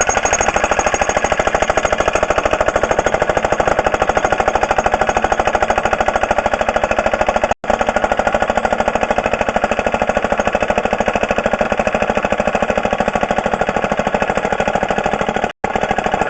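Jackhammer running in rapid, steady hammer strokes, loud. It stops for an instant about seven and a half seconds in and again shortly before the end.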